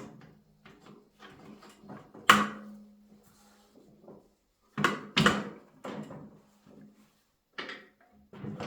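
Metal parts being handled, knocking and clanking in a series of separate knocks. The loudest comes about two seconds in, and some leave a short low ringing tone.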